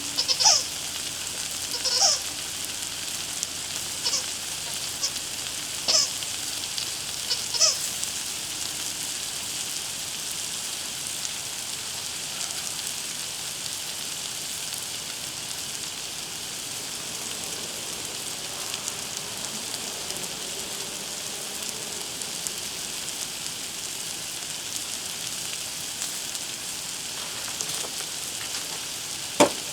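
A dog's squeaky toy squeaking in short bursts about six times in the first eight seconds, over a steady sizzling hiss from the hot griddle. A single sharp click near the end.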